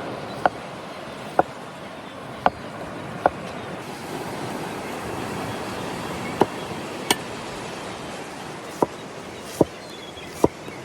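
Steady wash of sea surf, with sharp knocks at uneven spacing, about nine of them, pausing for a couple of seconds midway.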